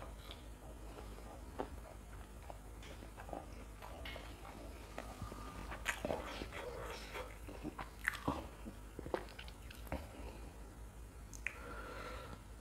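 Close-miked chewing and biting of a fried lentil fritter (wade), with sharp wet mouth clicks and the odd crunch, busiest around the middle.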